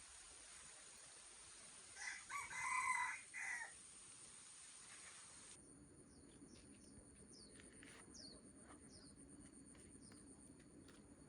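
A rooster crows once, about two seconds in, over a steady hiss. After that, faint short high chirps of small birds.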